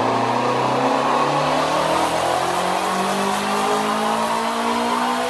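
Twin-turbocharged Shelby GT350R's 5.2-litre flat-plane-crank V8 running at wide-open throttle on a chassis dyno, its pitch climbing steadily as the revs rise through a dyno pull.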